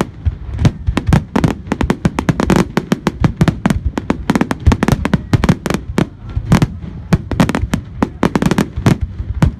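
Display fireworks going off in a dense, rapid barrage: sharp bangs, several a second at irregular spacing, over a continuous low rumble.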